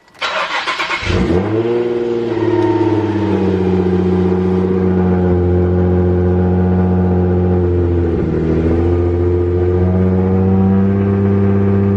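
Car engine and exhaust droning steadily while driving, with a short rush of noise in the first second. The pitch dips briefly about eight seconds in, then holds level again.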